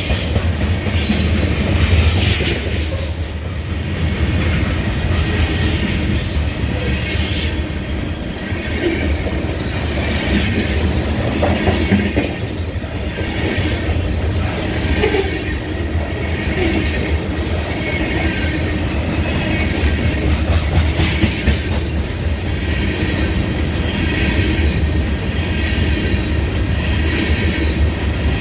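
A train passing close by on the line: a steady, loud rumble of wheels on rail with a repeating clatter of wheels over the track.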